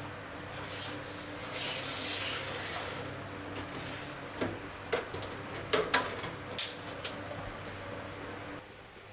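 A rasping scrape about a second in, then several sharp knocks and clacks, over a faint low steady hum that stops near the end.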